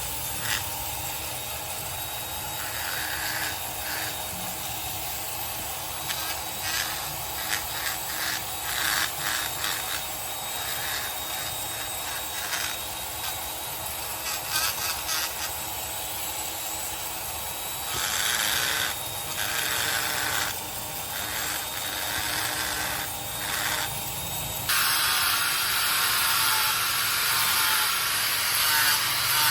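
Tools scraping and rasping at a sculpture in many short, uneven strokes, giving way near the end to a steady, continuous grinding noise.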